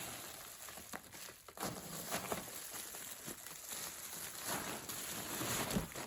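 Rustling packaging and light handling clicks as a cordless phone handset is unpacked from its box.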